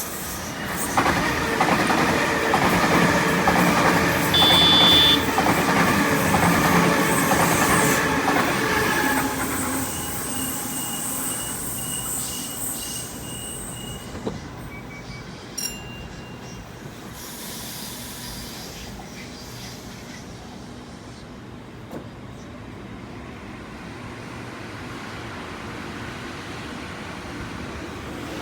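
A train passing on the line, loud for the first several seconds, then fading away to a steady rumble. Thin high wheel squeal sounds partway through.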